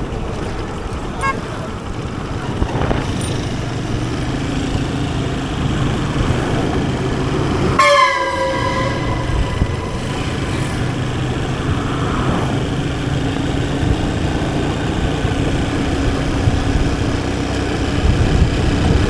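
Steady engine and road noise of a moving motorcycle, with a vehicle horn blaring once for about two seconds about eight seconds in, its pitch dipping slightly as it starts.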